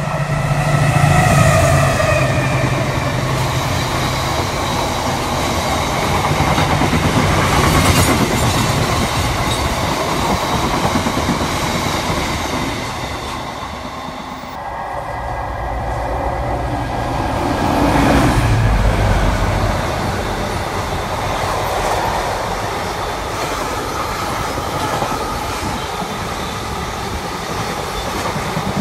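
Diesel-hauled coal freight trains passing close by. A train horn sounds for about two seconds at the start, then the locomotive's engine rumbles and the wagons clatter over the rail joints. After a break midway, a second freight train passes with the same wagon rattle and rumble.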